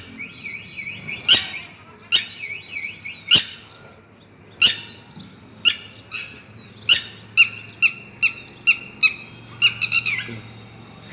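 A bird giving loud, sharp, repeated calls, about fourteen of them, coming faster toward the end, with a softer wavering trill between the first few calls. By the video's account these are a mother bird's cries over her missing chick.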